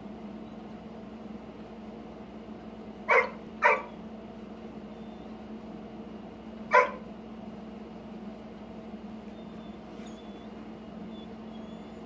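A dog gives three short barks, two in quick succession about three seconds in and a single one a few seconds later, over a steady low hum.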